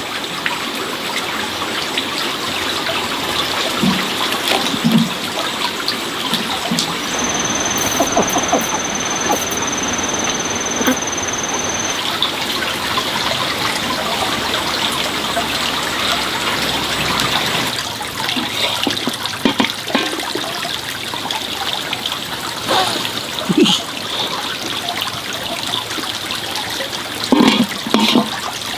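Water running steadily, with scattered small knocks, then thinning to an uneven trickle about two-thirds of the way through. A thin, steady high tone sounds for about five seconds near the middle.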